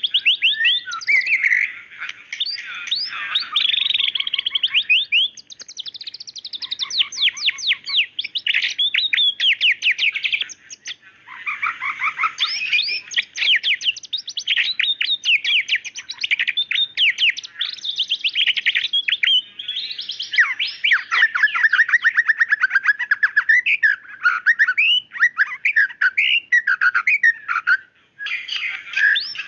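White-rumped shama singing a long, continuous song of rapid whistled phrases and fast trills, with short breaks about eleven seconds in and near the end.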